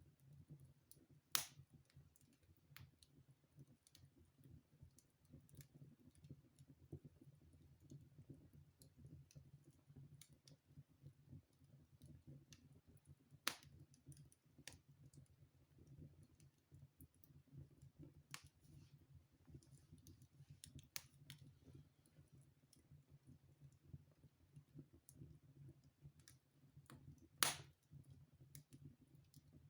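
Wood fire crackling in a fireplace: scattered small pops and three louder snaps, over a faint low rumble of the burning fire.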